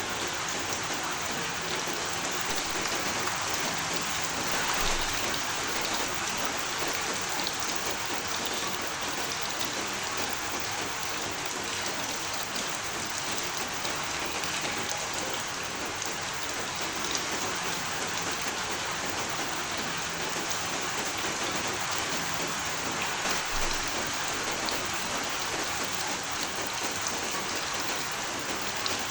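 Steady rain falling, a dense even hiss with scattered drops hitting a surface.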